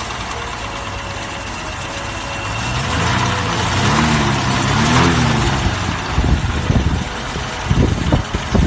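Mercedes-Benz 300 (W186) 3.0-litre straight-six engine idling, revved up twice about three to five seconds in, then settling back to idle.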